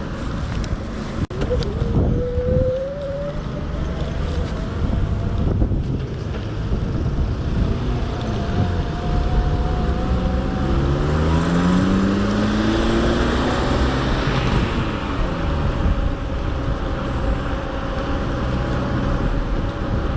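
Road traffic passing close by during an e-bike ride, with engine notes sliding in pitch as vehicles go past in the middle of the stretch. Under it is a constant low wind rumble on the microphone and a steady whine that rises about two seconds in.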